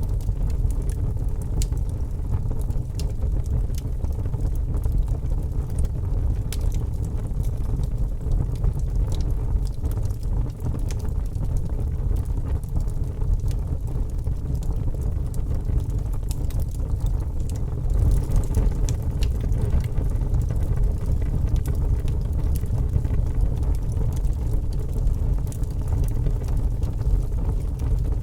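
Fire crackling: a steady low rumble of burning with many scattered sharp pops and snaps.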